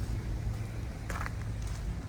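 Street traffic ambience: a steady low rumble of passing vehicles, with a short scuffing sound about a second in.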